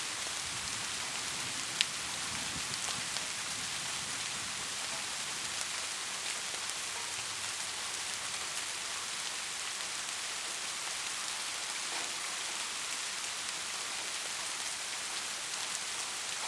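Steady heavy rain falling on a roof, an even hiss with scattered drop ticks and one sharp, louder tap about two seconds in.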